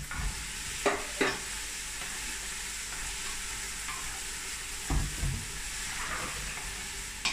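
Food frying with a steady sizzle in a large stainless steel pot on low heat while it is stirred with a spoon. The spoon knocks against the pot a couple of times about a second in and once more near five seconds.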